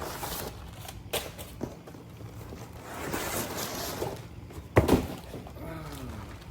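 Skateboard packaging being handled: rustling and scraping of box and wrapping with a few light knocks, and one loud thump a little before the end.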